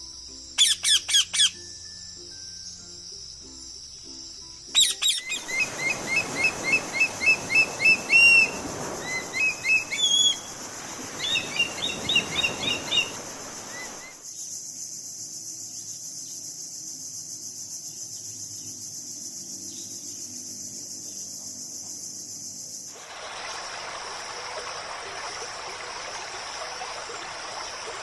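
Bird calls: a few sharp quick calls about a second in, then a long run of rapid, evenly repeated call notes, over a steady high-pitched hiss and soft background piano.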